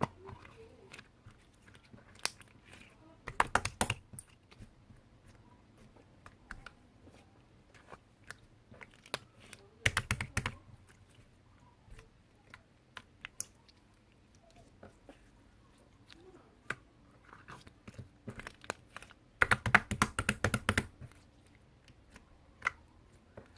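Soft slime being squeezed and poked by hand. It makes three bursts of rapid sticky popping clicks, with scattered single clicks between them.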